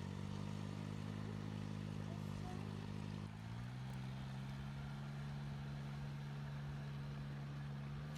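Boat engine running steadily, its pitch stepping up slightly about three seconds in.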